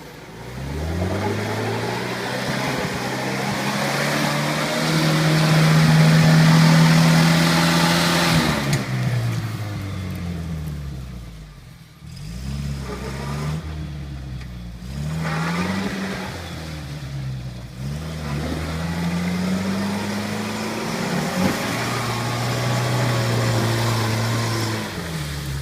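UAZ off-road vehicle's engine revving hard and easing off again and again: a long climb held high, a drop, several quick short revs, then another long held rev that falls away near the end.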